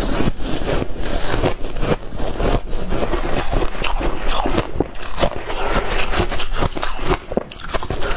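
White ice being bitten and chewed close to the microphone: a dense, irregular run of loud crunches and cracks.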